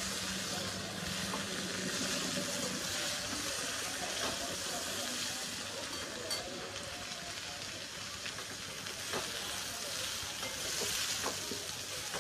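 Boiled raw banana cubes sizzling in a steel pan of hot oil tempered with mustard seeds and urad dal, stirred with a perforated steel ladle, with light clicks of the ladle against the pan now and then.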